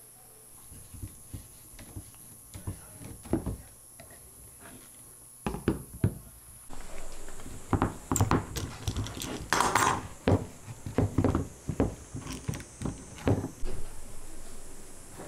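Irregular knocks and clatter of tools and workpieces being handled on a workbench, with a short scraping stroke about ten seconds in.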